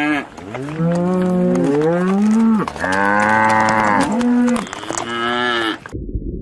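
Cattle mooing: a run of long calls one after another, some held steady and some rising in pitch. The calls cut off abruptly near the end, giving way to a dull low rumble.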